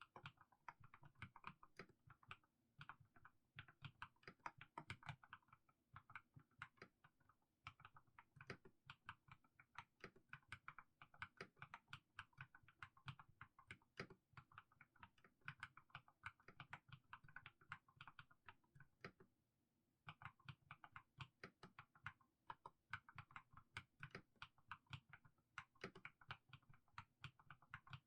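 Mechanical keyboard with fully lubed Haimu Sea Salt switches being typed on slowly and steadily, a quiet run of short keystroke clacks with a pause of about a second roughly two-thirds of the way through.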